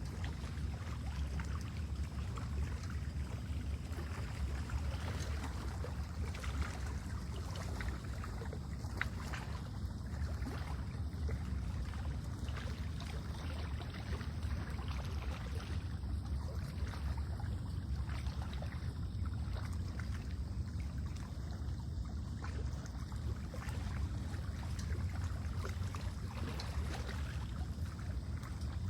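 Lake-shore ambience: small waves lapping at the water's edge over a steady low rumble of wind.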